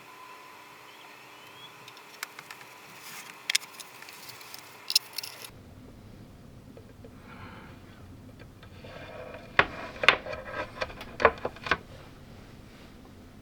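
Eating sounds: sharp clicks and scrapes of utensils and dishes with short crunches, in a scattered run a few seconds in and a louder cluster near the end.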